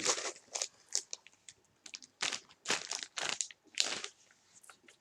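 Plastic snack bag crinkling and rustling as it is handled, in a string of short irregular crackles.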